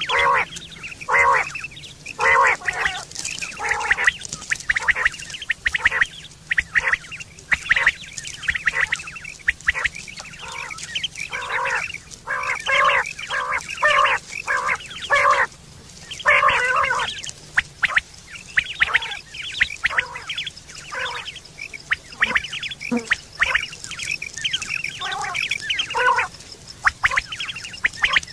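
Common quail calling: rapid, irregular runs of short harsh calls that overlap like several birds at once.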